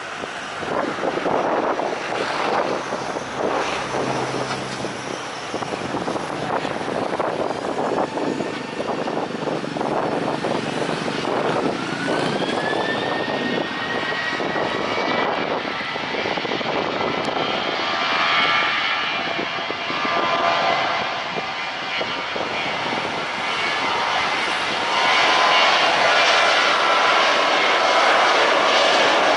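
Jet airliner engines running with a loud rush. About twelve seconds in, a whine rises in pitch and then holds steady as a high tone, and the sound grows louder near the end.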